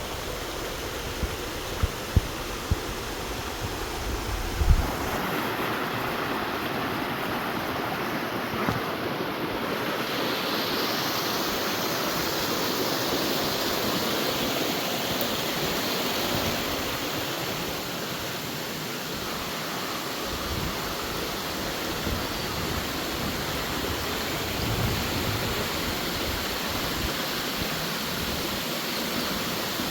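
Waterfall rushing with a steady roar of falling water, with a few sharp knocks in the first five seconds.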